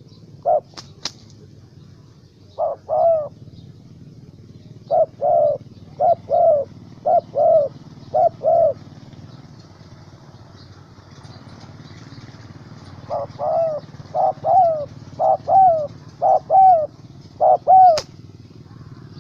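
Spotted dove (tekukur) cooing: short notes, mostly in pairs, in two runs with a pause of about four seconds between them. A few sharp clicks sound early on and one near the end, over a steady low hum.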